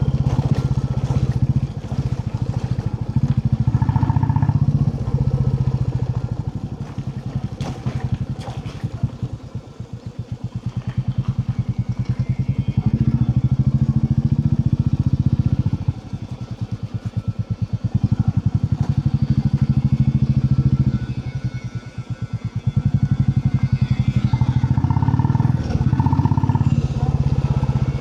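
Royal Enfield Classic 350's single-cylinder engine running under way, with a pulsing low beat. The throttle eases off three times, at about ten, sixteen and twenty-two seconds in, and the engine picks up again each time.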